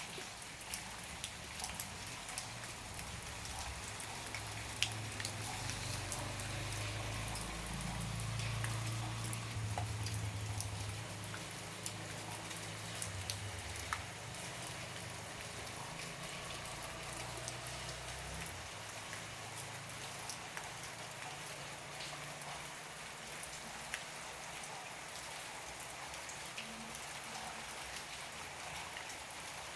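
Heavy rain falling, with a steady hiss and many separate drop hits. A low rumble joins in for the first half and is loudest about a third of the way in, then dies away.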